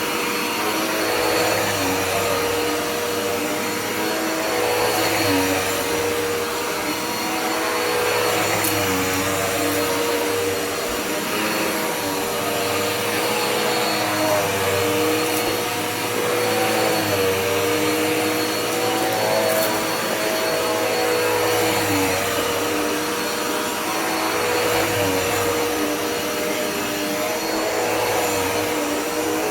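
Dirt Devil Powermax upright vacuum cleaner running steadily: a motor hum with a strong tone whose overtones waver slightly, over the rush of air. It now runs with its clog cleared, sounding much better.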